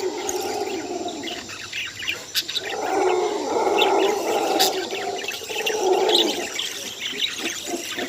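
Pet green parrots calling and chirping: scattered short high chirps, with three longer, lower calls about a second apart each.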